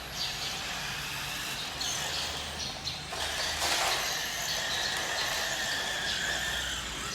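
Electric drive of a Tokyo Marui 1:5 scale RC motorcycle running, with a high steady whine that sets in about three seconds in and slowly sinks in pitch.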